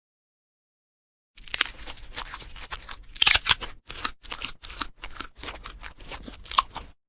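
A pet chewing crunchy food: a run of irregular crisp crunches, starting about a second and a half in.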